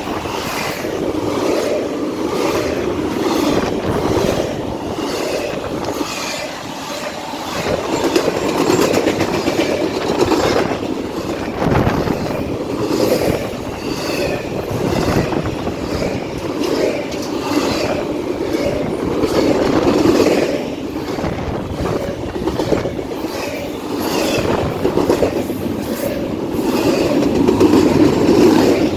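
CN freight train passing at speed, its cars' wheels rumbling and clacking steadily over the rail joints, the sound swelling and easing every few seconds.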